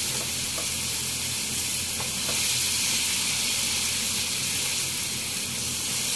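Okra and tomato masala paste frying with a steady sizzle in a wok while a spatula stirs them, with a few faint taps of the spatula against the pan.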